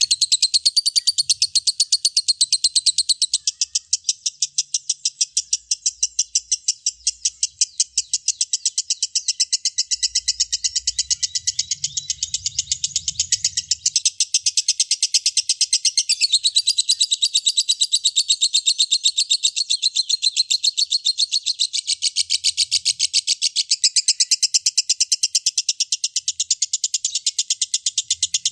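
Lovebird singing a long unbroken ngekek: a fast, chattering trill of high, rapid notes repeated several times a second, running on without a pause.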